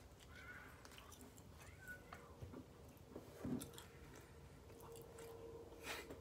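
Quiet chewing of a burrito: soft mouth sounds and small clicks, loudest about three and a half seconds in.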